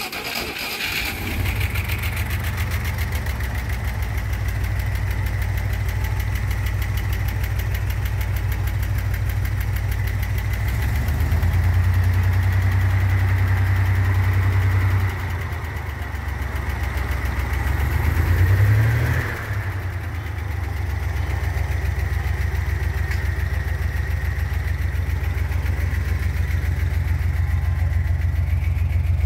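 Buick 225 V6 in a 1948 Willys CJ-2A, just started after a year without running, idling steadily. Its speed rises for a few seconds near the middle, and it is revved once, briefly, about two-thirds of the way through before settling back to idle.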